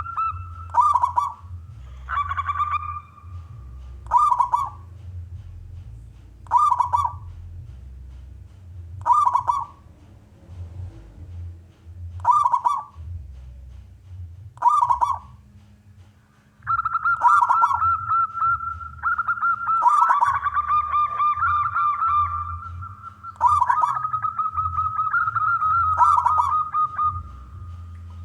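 Male zebra dove (perkutut) cooing: short call phrases about every two and a half seconds, then, after about sixteen seconds, a long unbroken run of calls lasting about ten seconds. A steady low hum lies underneath.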